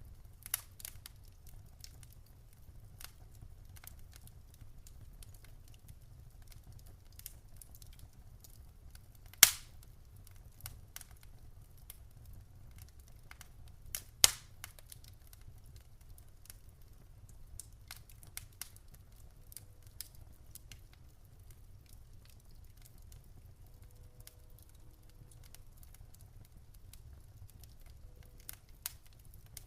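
Wood fire in a fireplace crackling, with scattered small snaps and two loud sharp pops, about nine and fourteen seconds in, over a low steady rumble.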